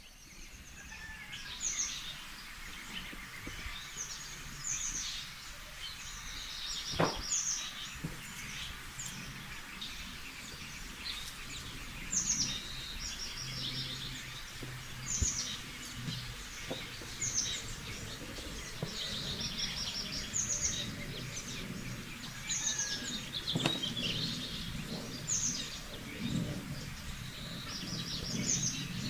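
Small birds chirping and singing outdoors: short high calls and quick trills repeated every second or two over a steady background hiss, with a couple of soft knocks.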